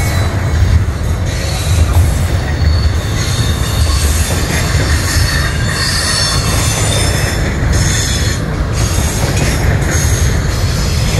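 Double-stack intermodal container well cars rolling past at close range: a steady heavy rumble of steel wheels on rail, with high wheel squeal coming and going over it.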